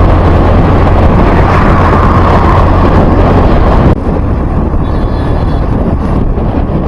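Steady road noise of a vehicle travelling along a road, with heavy low rumble and wind on the microphone; it drops abruptly to a lower level about four seconds in.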